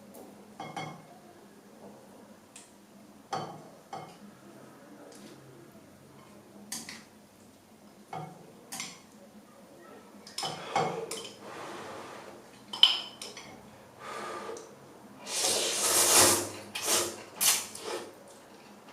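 Eating instant ramen: utensils clinking and tapping against the bowl in scattered clicks, with a longer, louder rush of noodle slurping about fifteen seconds in.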